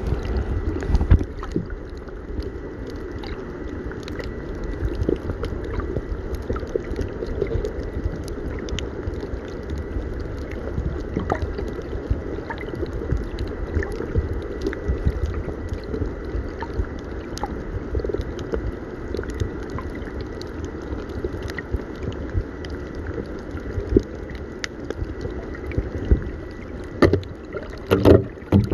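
Steady low rumble of a boat moving on the sea, with water noise and scattered small knocks, and a few louder knocks near the end.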